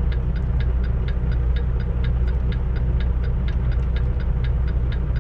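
Semi truck's diesel engine idling, heard inside the cab as a steady low drone, with an even quick ticking over it at about four to five ticks a second.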